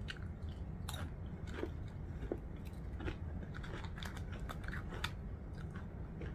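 A person chewing a mouthful of tortilla chip with dip, heard as many short, irregular crunches and clicks. A steady low hum runs underneath.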